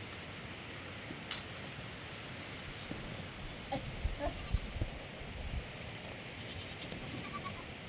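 A few short, faint bleats from livestock in the middle, over a steady background hiss, with a handful of low thumps and a sharp click.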